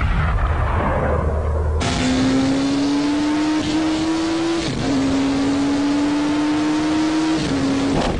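Honda CBR1100XX Super Blackbird's inline-four engine revving hard under full acceleration, its pitch climbing steadily and dropping at an upshift a little under five seconds in and again near the end. It cuts in sharply about two seconds in, after a rushing whoosh.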